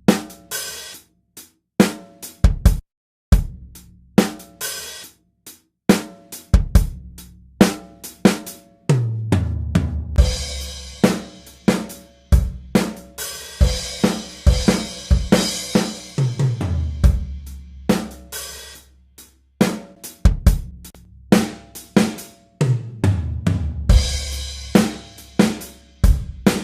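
Drum kit beat of kick, snare, hi-hats and cymbals, each hit trailing off in reverb. The hits are sparse and broken for the first several seconds, then settle into a steady groove. A deep bass note slides down in pitch three times.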